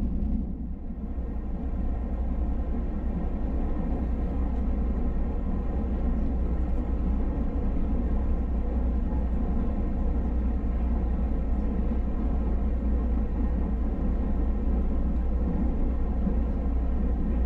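Steady running rumble of a moving train heard from inside the carriage, with a faint steady hum over it.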